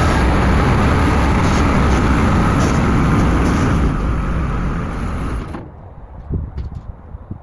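Tractor running as it drags an M4 Sherman tank along on its newly fitted tracks, a loud steady rumble. The noise stops suddenly about five and a half seconds in, leaving a few faint knocks.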